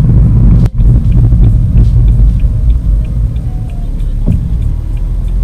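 Car in motion: a loud, steady low rumble of engine and road noise, with a faint, even ticking of about three to four a second. The sound drops out abruptly about a second in, then carries on.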